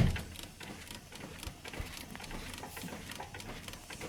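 Light, irregular clicking and knocking from a loose front anti-roll bar link on a Nissan Primera P11 as the suspension moves; the link's fastening has come undone.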